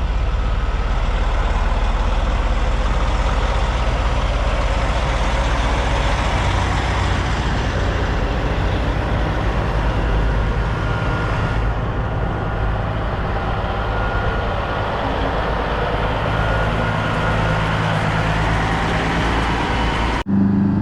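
Heavy diesel truck engines running with a steady low rumble. Near the end the sound cuts abruptly to an engine revving up, rising in pitch.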